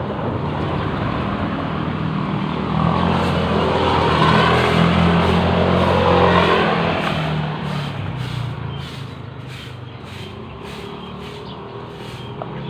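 A motor vehicle driving past: its engine and road noise grow louder to a peak midway, then fade away.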